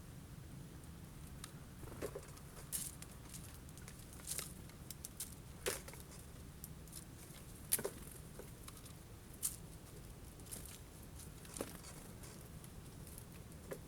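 Irregular sharp taps and clicks of birds pecking at sunflower seeds on a bird feeder, a few louder knocks among lighter ticks, over a faint steady low hum.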